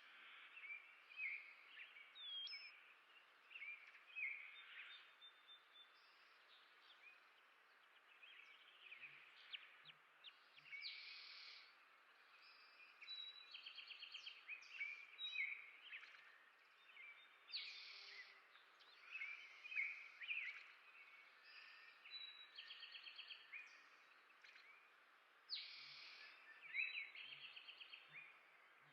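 Several small birds chirping and calling, faint, with short whistled notes and rapid trills every few seconds over a soft outdoor hiss.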